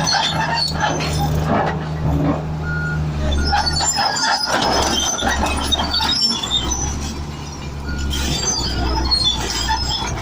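Komatsu bulldozer's diesel engine running, with scattered high squeaks from its steel tracks and a few short beeps.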